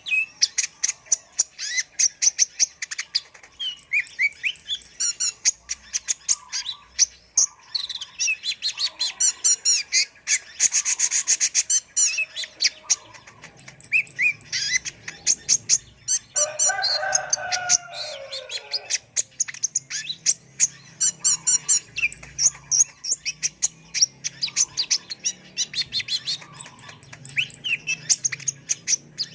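Kolibri ninja sunbird singing continuously: rapid runs of high, sharp chirps and fast trills. A lower, harsher call cuts in for a few seconds about midway.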